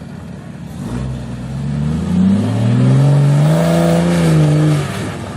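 Off-road 4x4's engine revving up under throttle: the pitch climbs over a couple of seconds, holds high and loud, then drops off suddenly near the end.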